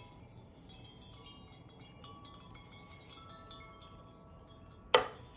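Wind chimes ringing, scattered clear notes at several different pitches overlapping one another. Near the end, a single sharp knock.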